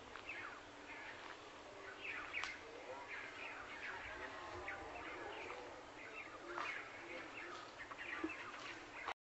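Small birds chirping: many short, quick downward-sweeping chirps, several a second, over faint low background noise.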